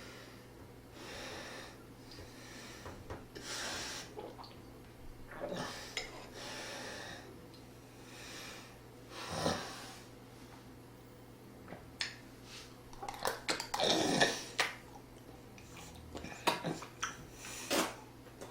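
A person breathing audibly while eating, with clicks and clinks of spoon and dishes bunched in the last third, loudest about three-quarters of the way in.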